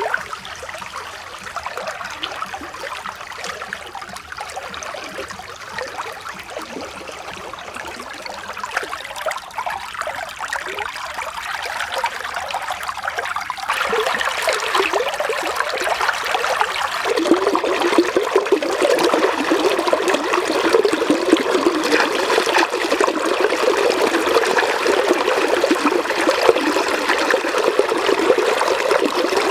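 Flowing water trickling and running like a small stream, growing louder about 14 seconds in and fuller again a few seconds later.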